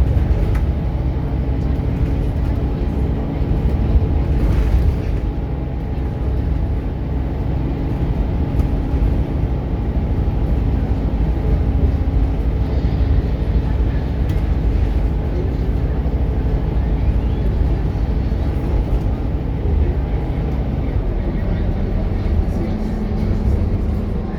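Scania K230UB bus's diesel engine running under way with its ZF automatic gearbox, a steady engine note that steps down in pitch near the end.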